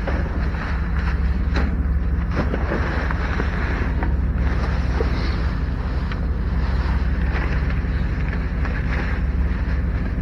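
Steady low rumble of a running vehicle with road and wind noise, and a few faint clicks and rattles.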